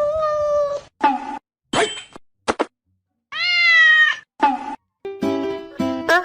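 Domestic cat meowing: two long meows, the second rising then falling in pitch, with short calls between them. Music with plucked-sounding notes starts about five seconds in.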